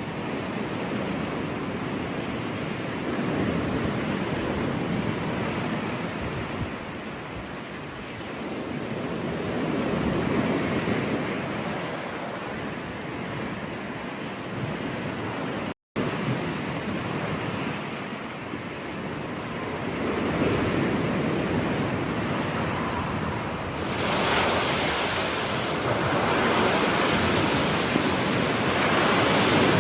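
Ocean surf breaking on a beach, the wash swelling and fading every several seconds. There is a split-second gap about halfway through, and in the last few seconds the surf turns brighter and hissier.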